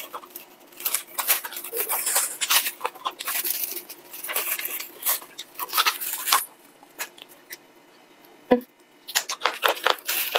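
Close-miked crunching and chewing of crispy bone-in fried chicken: a rapid run of crisp crackles and mouth clicks. It lulls about two-thirds through with a single soft thump, then the crunching resumes near the end.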